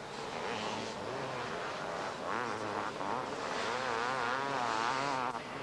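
500cc two-stroke motocross bike engines racing on the track, revving hard with a quickly wavering pitch as the throttle is worked over the bumps. The loudest stretch comes in the second half and drops away just before the end.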